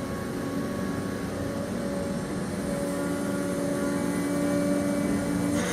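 Steady mechanical drone of a running engine or machine, with several steady humming tones over a noisy rumble.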